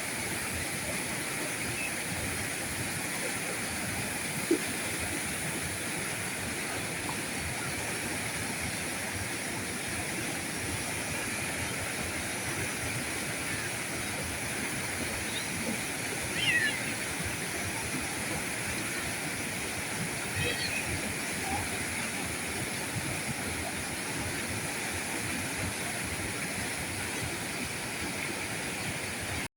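River current flowing, a steady even rushing of water. A sharp tick sounds about four seconds in, and a couple of short high chirps come about halfway through and again some four seconds later.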